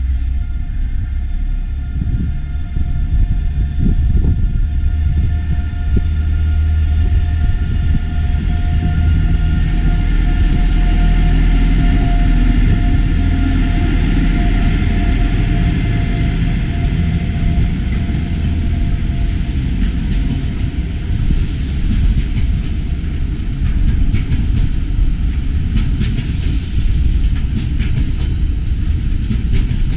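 Diesel train running past close by: a steady low engine rumble with a droning tone above it, loudest about halfway through, with a run of sharp clicks near the end.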